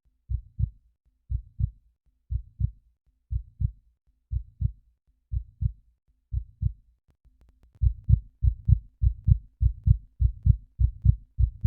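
Heartbeat sound effect: low 'lub-dub' double thumps at about one beat a second, which speed up to a faster, louder beat about eight seconds in.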